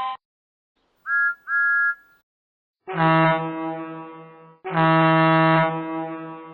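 Recorded train horn from a Lionel LionChief O-gauge train's sound system, giving two long, deep blasts that each fade out, preceded about a second in by two short high beeps.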